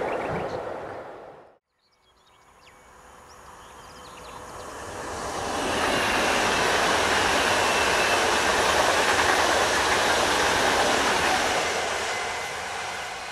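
A PKP Intercity ED161 'Dart' electric multiple unit passes, its running noise building from about two seconds in, staying loud for several seconds with a faint high whine on top, then easing off near the end. Before it, the rail noise of a freight train of car-transporter wagons cuts off abruptly about a second and a half in.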